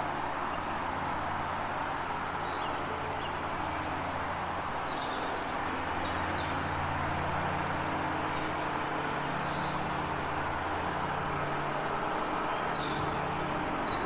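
Small birds chirping in short, scattered calls over a steady low rumble and hiss of background noise.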